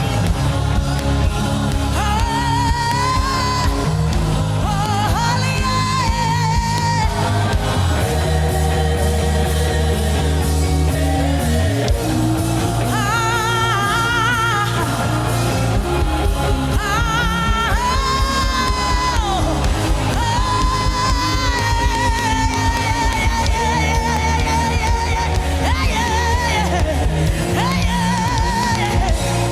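Gospel worship song: a solo voice sings long, wavering held notes without clear words over sustained low chords that change every few seconds.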